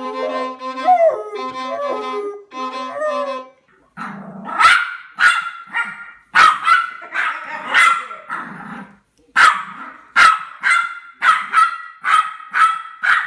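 A dog barking over and over, sharp barks about twice a second in short runs. The barks start about four seconds in, after a few seconds of music.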